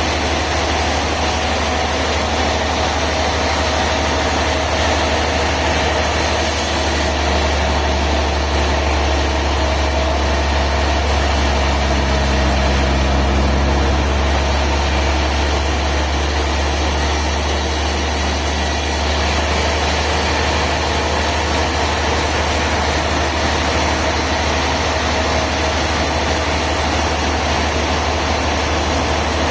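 Heavy sawmill machinery running steadily with a deep, continuous engine hum. The hum grows stronger for a stretch in the middle.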